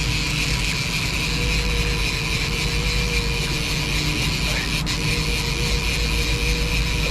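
A boat's engine running steadily, with a constant hum and whine over a loud rush of wind and water.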